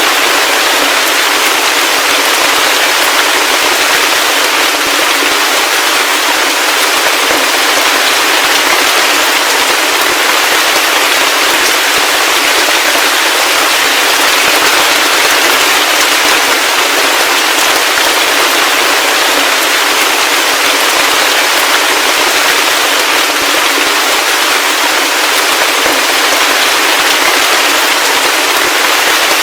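Heavy rain falling steadily, a dense, even hiss of countless drops with fine crackling patter and no deep rumble.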